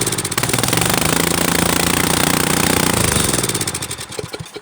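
Small gasoline engine running on gasoline fumes instead of liquid fuel, with a fast, steady rattle; about three and a half seconds in it slows and dies, with a few last separate firings before it stops.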